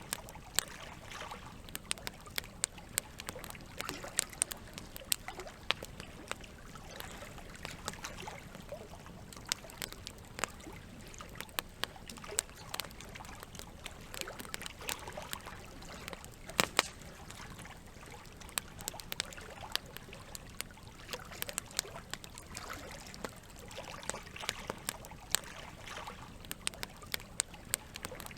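Wood campfire crackling, with irregular sharp pops throughout and a louder double pop about two-thirds of the way in, over a steady trickle of running water.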